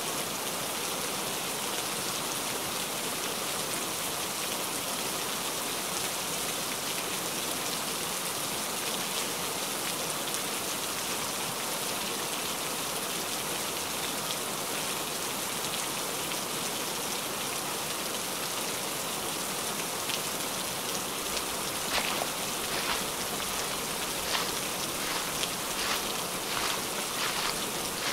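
Heavy rain falling steadily as a dense, even hiss. In the last several seconds, separate close drops tap out more distinctly over the hiss.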